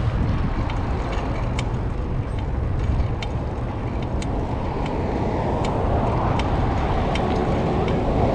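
Wind rumbling on the microphone and road noise while riding a bicycle, with scattered light clicks.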